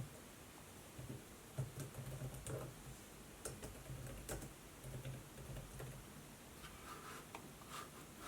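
Faint, scattered laptop keystrokes: irregular clicks and taps with uneven gaps, a few quick clusters about three and a half seconds in and near the end.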